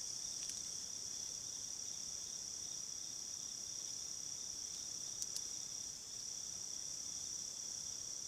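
Insects trilling in a steady, unbroken high-pitched drone, with a couple of faint clicks about five seconds in.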